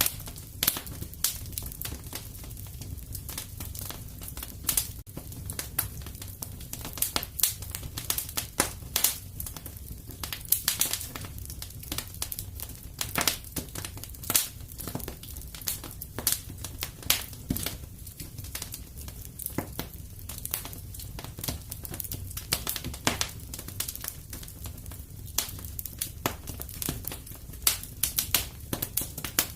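A wood fire crackling: a dense, irregular run of sharp pops and snaps over a steady low rumble of the burning fire.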